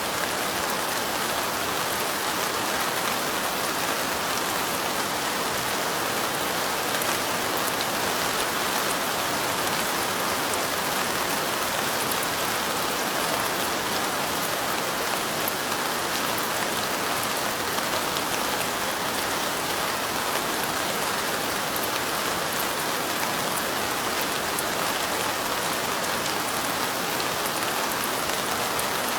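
Steady light rain falling: an even hiss with fine, scattered drop ticks, unchanging throughout.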